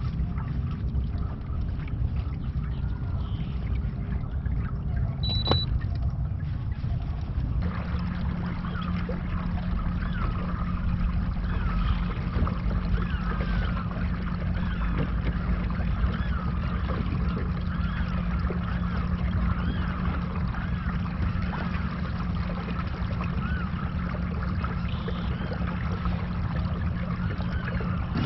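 Motorized kayak under way: a steady low rumble of water and wind noise, joined about eight seconds in by the steady hum of its electric trolling motor.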